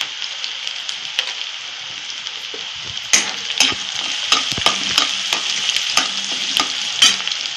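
Chopped onion, garlic and chillies sizzling in hot oil in a metal wok, frying for a tempering. From about three seconds in, a steel spatula stirs them, clicking and scraping against the pan many times.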